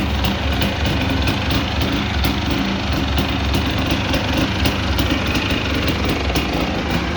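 A 1989 250R ATV's two-stroke single-cylinder engine idling steadily while it warms up after a cold start.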